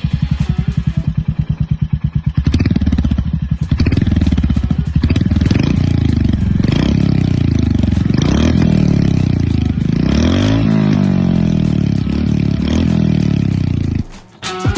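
Royal Enfield Hunter 350's single-cylinder engine idling with a steady beat of separate firing pulses, then revved again and again from about two and a half seconds in, its pitch rising and falling with each blip, before cutting off near the end.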